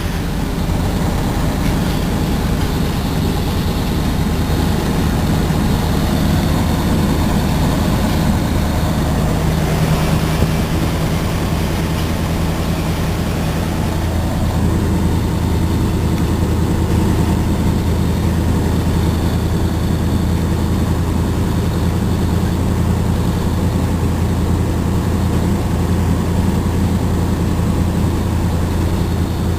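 Mercedes truck's diesel engine running steadily at low revs, a deep even hum whose tone shifts slightly about a third of the way through.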